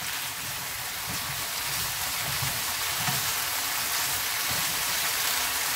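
Tofu, mushrooms and peppers sizzling steadily in a hot nonstick pan over high heat, stir-fried in a starch-thickened sauce, with soft scrapes and knocks of a wooden spatula turning them.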